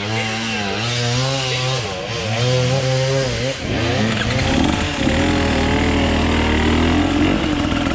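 Enduro dirt bike engine revving, its pitch rising and falling as the throttle is worked, then settling into a steadier, lower note after about four seconds.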